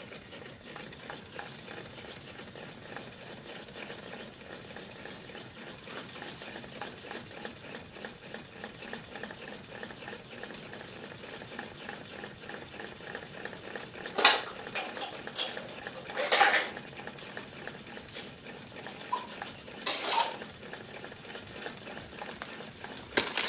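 Homemade tin-can Stirling (hot-air) engine running after a hand spin, its wire linkage and displacer making a rapid, steady light rattle. A few louder clicks and knocks come in the second half.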